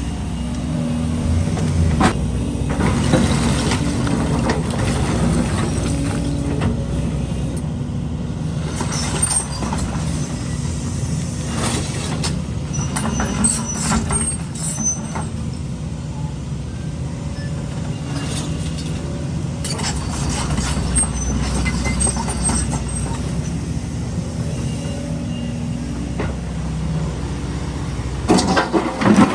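Heavy diesel construction machinery running steadily under load, with scattered sharp metallic clanks and knocks.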